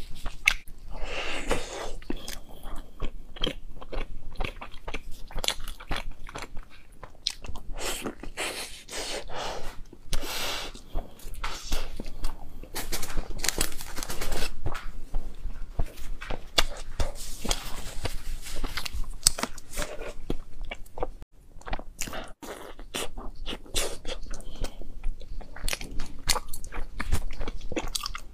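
Close-miked chewing and biting of a chocolate-filled bread, with many quick crunches of its crust and wet chewing throughout.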